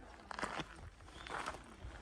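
Footsteps on a forest path, two crunching steps about a second apart.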